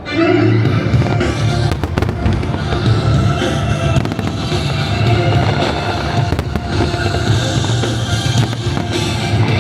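Aerial fireworks bursting and crackling, with many sharp bangs scattered throughout, over continuous loud music.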